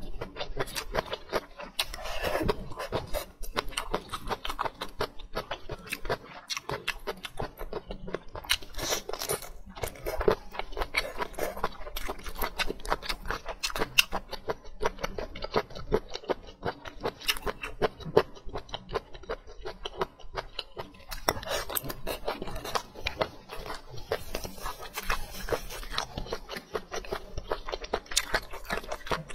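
A person eating close to a clip-on microphone: steady chewing and mouth sounds with many small clicks, on braised meat and rice.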